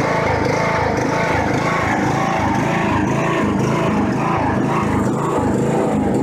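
Engine of a John Deere LA105 riding mower running steadily.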